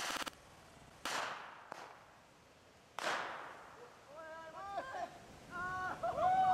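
Fireworks going off: three sharp cracks, about a second in, just under two seconds in and three seconds in, each with a short fading tail. In the second half, people hoot and whoop.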